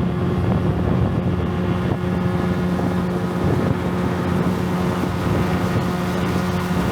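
Motorboat engine running steadily at cruising speed, with wind buffeting the microphone.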